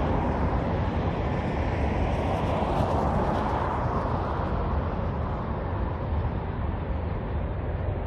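Road traffic with one vehicle passing by, its noise swelling to a peak about three seconds in and then fading away, over a steady low rumble.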